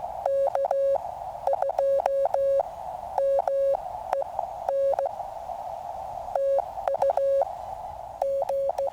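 Morse code (CW) from a QRP Labs QCX mini transceiver: a single tone of about 600 Hz keyed on and off in dots and dashes. Under it runs a steady hiss through the radio's narrow CW filter.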